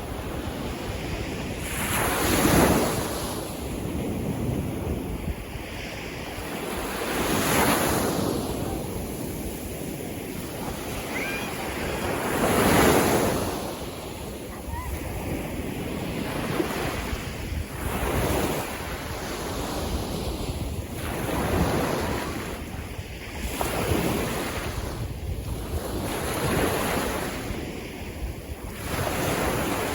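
Sea waves washing ashore, each one swelling and falling away, every few seconds and closer together toward the end, over a constant low rumble of wind on the microphone.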